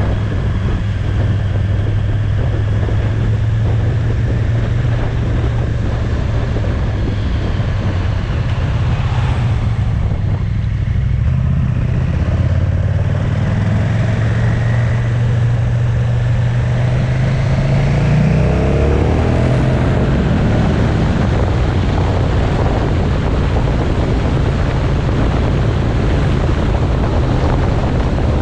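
Motorcycle engine running on the move under steady wind rush. The engine note climbs slowly, then changes abruptly about two-thirds of the way through.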